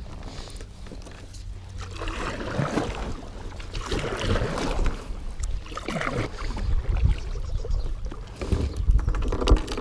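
Kayak paddle strokes: the blades dip and swish through the water in irregular swells about every second or so, with water sloshing and dripping around the hull.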